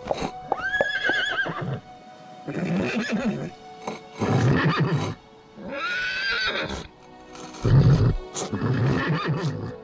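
Cartoon unicorns whinnying and neighing, about six calls in turn as if in conversation, over background music.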